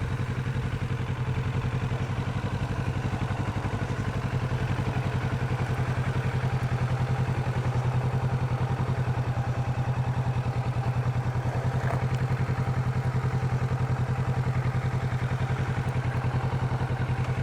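Kawasaki Vulcan 650's parallel-twin engine idling steadily at an even, unchanging pitch, with no revving.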